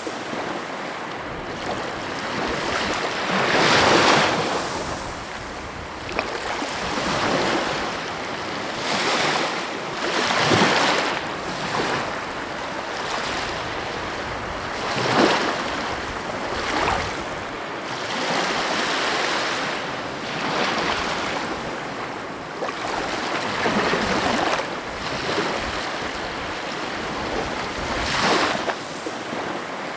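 Sea waves breaking and washing on the shore in a continuous rush, swelling and falling every few seconds.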